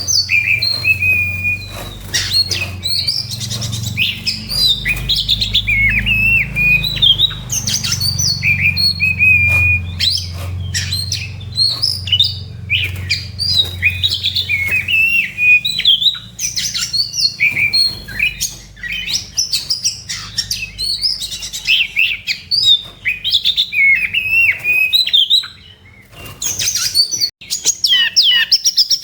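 Oriental magpie-robin (kacer) singing vigorously in fighting mood: a long, unbroken, varied song of sweet whistles, quick rising and falling notes and rapid chattering phrases. A low hum runs under the first half of the song and then fades out.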